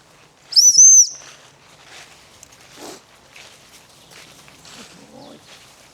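A high, clear whistle blown about half a second in, one short note that rises and falls twice, calling the dogs back; then only faint rustling and steps.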